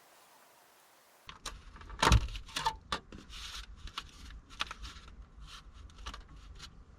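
A run of clicks, knocks and short rustles from objects being handled, starting about a second in, with the loudest knock a second later and a low rumble underneath.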